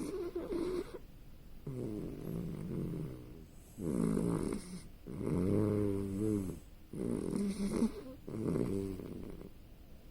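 A sleeping puppy snoring: about six pitched, wavering snores in quick succession, which stop near the end. The owner wonders whether the snoring is a sign of sleep apnea.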